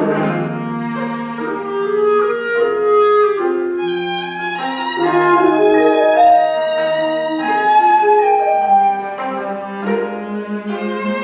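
Contemporary chamber ensemble of winds and bowed strings playing held, overlapping notes that shift in pitch every second or so, with clarinet and violin and cello to the fore.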